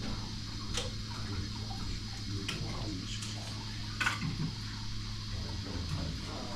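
Steady low mechanical hum with a few scattered light clicks and taps, the sharpest about four seconds in.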